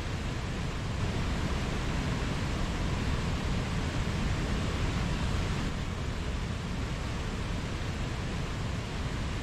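Mountain stream rushing over rocks: a steady, unbroken roar of flowing water with a full low rumble and hiss.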